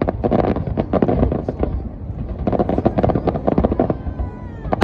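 Fireworks display in full barrage: many aerial shells bursting in quick succession, dense overlapping bangs and crackling, heaviest in two thick clusters near the start and in the second half.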